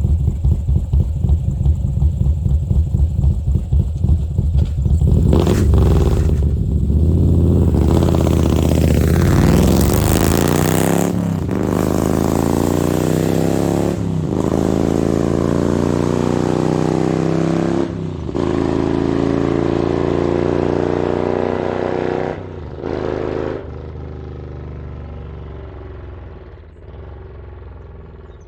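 Harley-Davidson Milwaukee-Eight V-twin with an SS 475 camshaft and Mutazu 2.0 megaphone slip-on mufflers running at a choppy, pulsing idle. It then accelerates up through the gears, with the pitch climbing in each gear between four upshifts, and fades toward the end.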